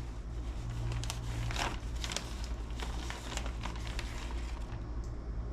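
Plastic bag crinkling and rustling as coated chicken pieces are handled and taken out of it, with a few soft irregular rustles over a steady low hum.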